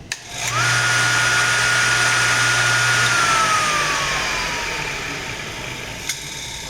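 Cuttermaster CM-01 end mill sharpener's grinding spindle motor switched on with a click, spinning up quickly to a steady high whine over a low hum. About three seconds in it is switched off and its whine falls slowly as the wheel coasts down. A second click comes near the end.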